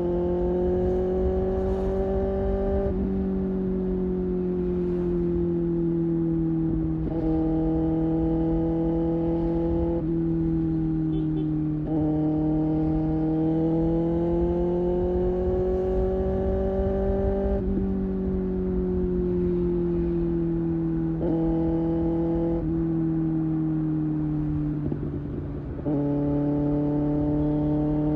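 A 2024 Kawasaki ZX-6R's 636 cc inline-four engine running steadily at highway cruising speed, its pitch drifting slightly up and down as the throttle is eased and opened. The engine drops off briefly near the end and then picks up again, with wind rush underneath.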